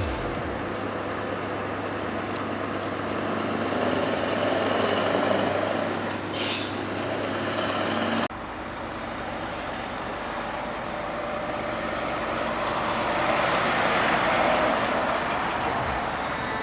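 Heavy trucks driving past on a road, with traffic noise that swells as each one goes by. The sound cuts abruptly about eight seconds in to another stretch of passing trucks.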